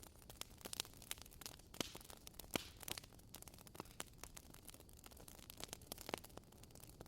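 Burning firewood crackling faintly, with irregular sharp pops and snaps over a soft hiss.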